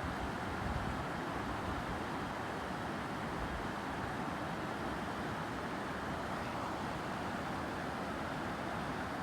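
Steady rush of a flowing mountain stream, with light wind buffeting on the microphone.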